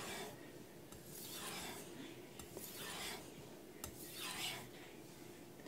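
Carbon steel knife blade being stroked across a wet 5000-grit glass whetstone, giving a few soft rasping swishes about every one and a half seconds.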